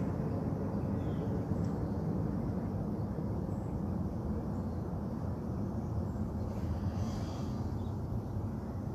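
Steady low outdoor rumble, like distant traffic or an aircraft, with a few faint high chirps, likely birds, about seven seconds in.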